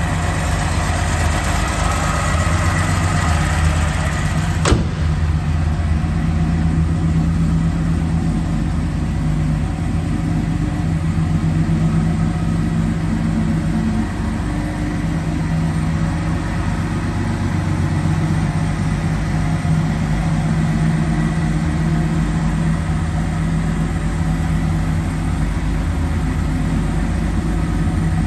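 1977 Datsun 280Z's 2.8-litre straight-six idling steadily after a cold start. A single sharp click sounds about five seconds in, and the engine sounds a little duller after it.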